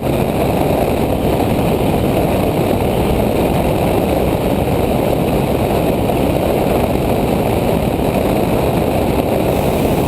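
Cessna 172SP's Lycoming IO-360 four-cylinder engine and propeller droning steadily in cruise, heard from inside the cockpit; it cuts in suddenly from silence.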